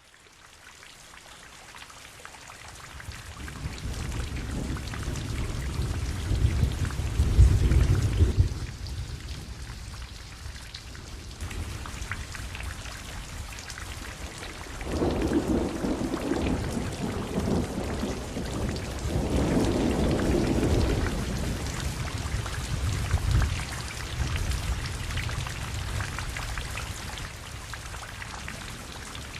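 Heavy thunderstorm rain pouring and splashing, with long rolls of thunder: one builds to a peak about seven or eight seconds in, another rumbles from about fifteen to twenty-one seconds in.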